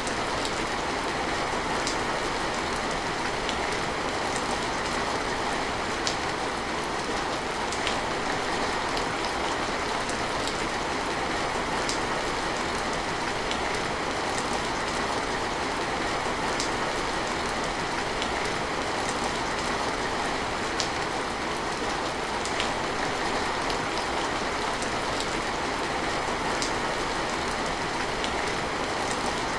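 Steady rain falling, an even hiss with scattered sharper drops tapping through it every second or two.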